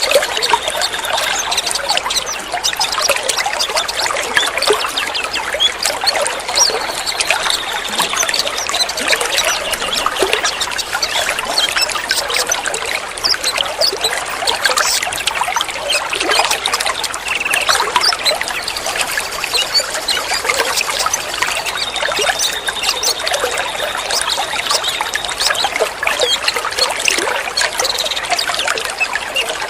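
Water trickling and splashing steadily, like a small stream or fountain, at an even level throughout, with a faint thin high tone surfacing now and then.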